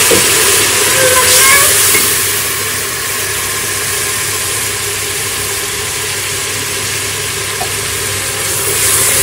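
Garlic and spice masala sizzling steadily in hot oil in an aluminium pressure cooker, with a little water just added. The sizzle is loudest in the first two seconds, then holds level.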